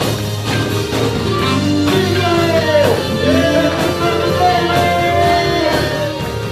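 Live band music: drums, bass and guitar, with a voice singing over it in sliding notes.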